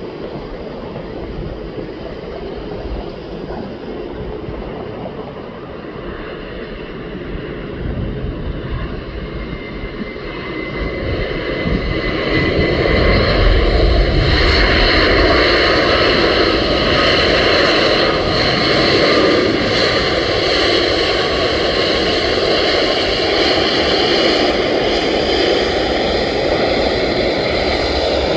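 Boeing 737 jet engines growing louder over about a dozen seconds as the airliner nears, with a whine of steady high tones over the jet noise, then holding loud.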